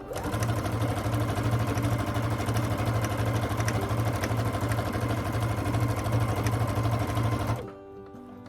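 Electric sewing machine running at a steady speed, stitching a quarter-inch seam through quilting cotton, then stopping suddenly about seven and a half seconds in.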